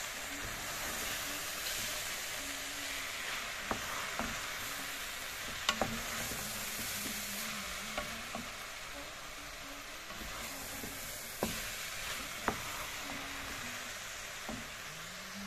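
Cabbage and beef sizzling in a metal pot as they are stirred with a wooden spoon, the spoon knocking sharply against the pot several times.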